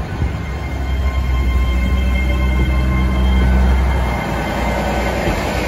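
Great Western Railway passenger train passing close by: a loud low rumble with a faint steady whine above it. The rumble eases a little about four seconds in.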